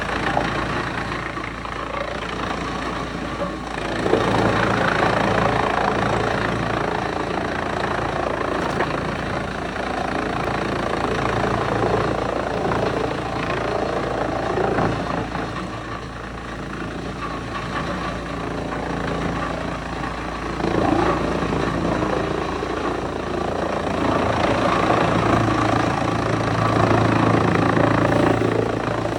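Wood chipper running under load: a steady heavy engine drone under dense grinding noise that swells and eases several times.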